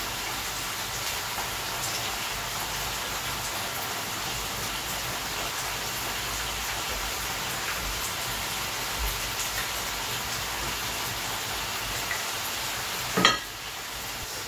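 Hot oil sizzling steadily in a frying pan of bakwan (vegetable fritters), with a few light clicks of a spatula. A sharp clack about 13 seconds in, after which the sizzle is quieter.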